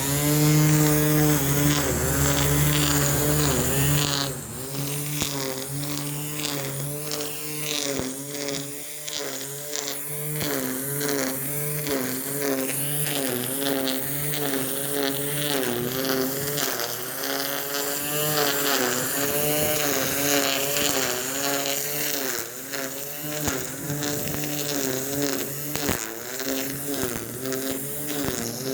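Petrol lawn mower engine running, its pitch wavering up and down as it works, with wind noise on the microphone.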